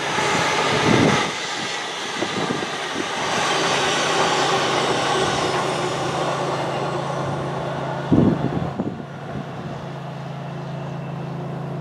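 LNER class 801 Azuma express passing at speed: a steady rush of wheels and air that dies away after about eight seconds as the last coaches go by. Low gusts of wind buffet the microphone about a second in and again near eight seconds.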